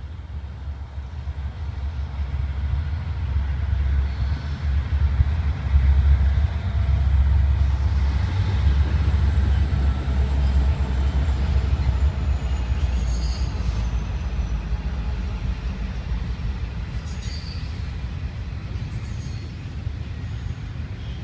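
Norfolk Southern freight train passing, its diesel locomotives (the Virginian heritage unit among them) running loudest about six seconds in, then the steady roll of the freight cars. A faint falling whine sounds midway, and a few short high-pitched wheel squeals come in the second half.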